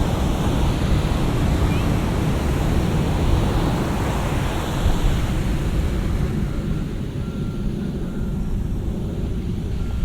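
Ocean surf breaking and washing up the beach, a continuous rushing noise with a deep low rumble that eases slightly in the second half.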